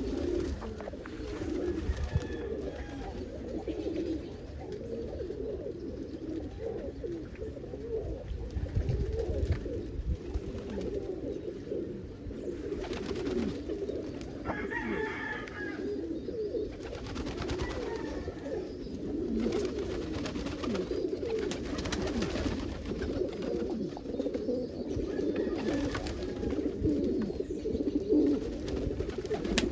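A loft full of domestic pigeons cooing, many overlapping coos going on without a break, with a low rumble underneath. About halfway through, one brief higher-pitched call stands out.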